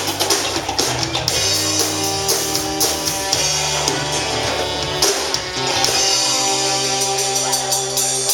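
A band playing live: electric guitar and bass chords over a drum kit, with a steady beat.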